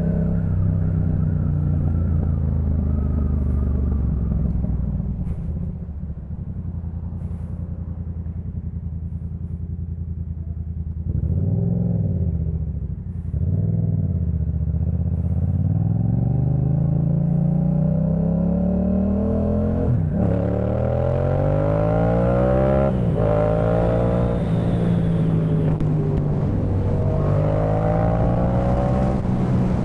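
Yamaha MT-07's parallel-twin engine through a Jeskap K4 full exhaust, ridden: it runs steadily, then eases off to a lower, quieter beat. Two short throttle blips come near the middle, then it pulls hard with a rising pitch through several gear changes, with quick drops at each upshift.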